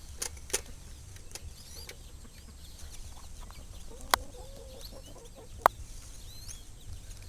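A hen clucking and faint birds chirping in the background, with two sharp clicks, about four and six seconds in, that are louder than the rest.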